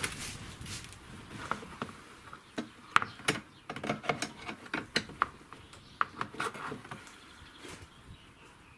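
Irregular sharp clicks and knocks of metal suspension parts and tools being handled as a front lower control arm is worked into place, the loudest about three seconds in.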